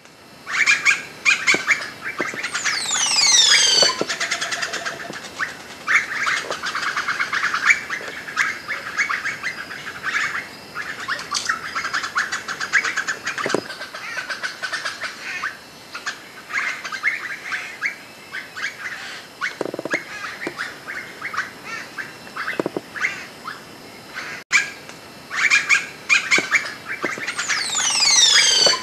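Forest birds calling over one another in rapid, chattering phrases. Twice, near the start and near the end, a run of high whistled notes sweeps down in pitch.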